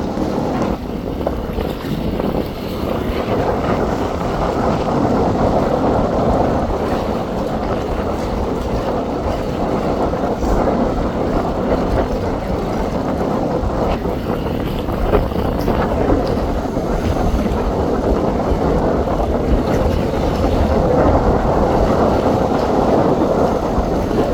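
Strong wind blowing across the microphone: a steady, loud rumbling rush that rises and falls a little without pause.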